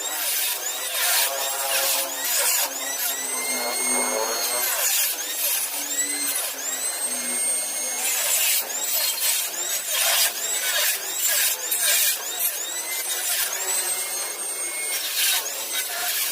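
Power tool cutting into the pickup's sheet-metal body. Its whine rises in pitch and levels off over and over, between rough noisy bursts where it bites the metal.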